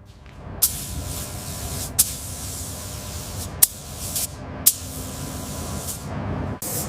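Compressed air spraying in repeated hissing bursts, each starting with a sharp click, about five times, over a steady low hum.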